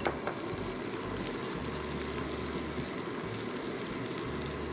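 Garlic cloves, ginger pieces and whole spices sizzling steadily in hot groundnut oil in a steel kadai as a wooden spatula stirs them, with a light knock right at the start.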